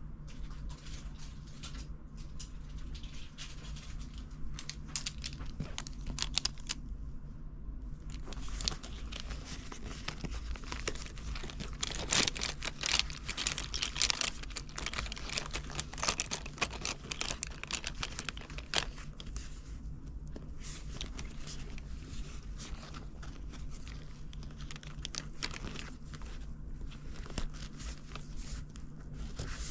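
Packaging crinkling and rustling as items are handled, with many small clicks and taps, busiest about halfway through.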